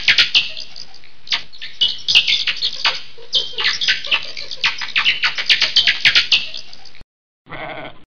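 A dense run of rapid, high-pitched squeaks and chirps from small animals, many of them sliding downward in pitch, cutting off abruptly about seven seconds in. A brief, different, buzzy animal call follows near the end.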